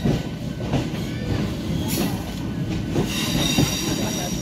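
MEMU electric passenger train running, heard from an open window of the coach: a steady rumble of wheels on rails with a few knocks over rail joints. A high metallic wheel squeal comes in about three seconds in.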